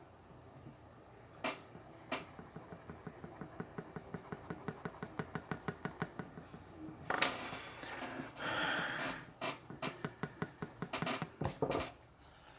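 A drawing tool scratching across paper in rapid, even back-and-forth strokes, about five or six a second, as in shading or scribbling in an area. Two longer scratchy strokes come about halfway through, and a few sharper strokes follow near the end.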